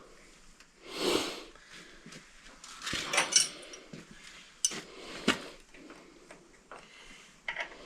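Metal tools and parts being handled during work on a tractor's hydraulic lift cylinder: a few scattered sharp clinks and knocks with soft rustling between them.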